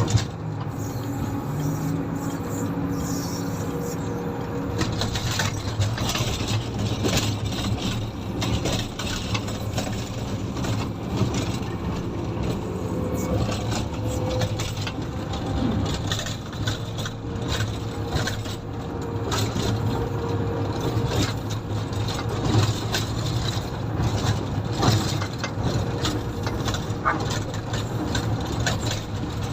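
Komatsu motor grader's diesel engine running with a steady low drone, joined after a few seconds by frequent rattles and knocks.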